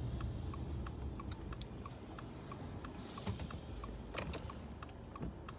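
A vehicle's indicator ticking steadily, about three ticks a second, inside a pulled-over car, over a faint low rumble, with a few louder clicks in the middle.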